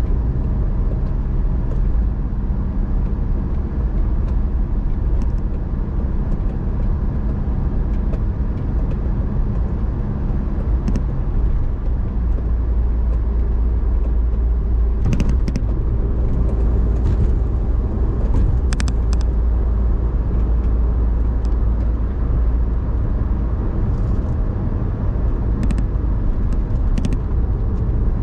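A car driving along: steady engine and road rumble, with a few short clicks or knocks along the way.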